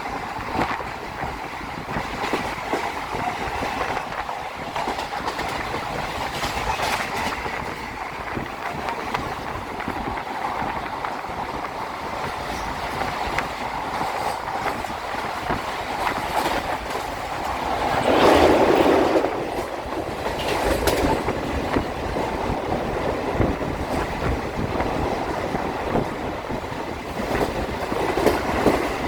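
Train running along the track, heard from a moving train: a steady rumble with the clickety-clack of wheels over rail joints. About two-thirds of the way through there is a louder rush lasting a second or two.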